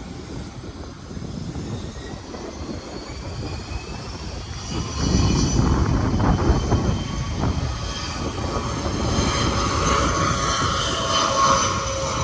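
Jet engines whining, several high tones that grow louder through the second half, with wind buffeting the microphone in a low rumble that swells about five seconds in.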